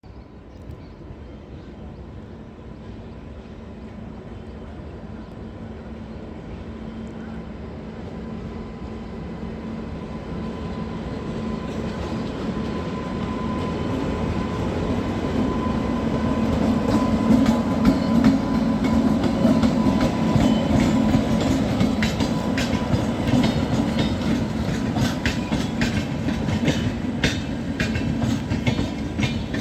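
Rajdhani Express with WAP-7 electric locomotives approaching at speed, its steady hum growing louder over about 17 seconds. It then passes close, with a fast run of clickety-clack wheel clicks over the rail joints.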